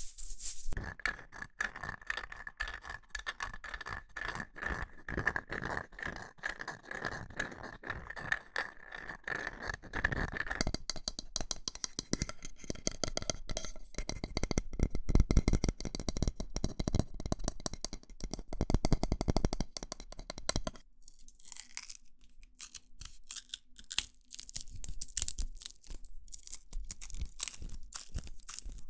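Close-miked ASMR trigger sounds: dense, rapid scratching and tapping on objects, switching to a new trigger about ten seconds in and again about twenty seconds in.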